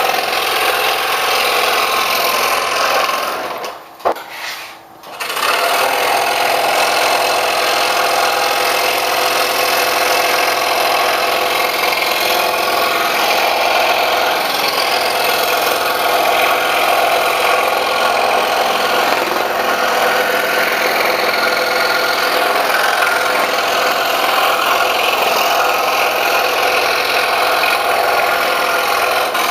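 Scroll saw running and cutting thin wood with a number 1 Flying Dutchman ultra reverse tooth blade. The sound drops away briefly about four seconds in, with a single click, then the saw runs steadily again.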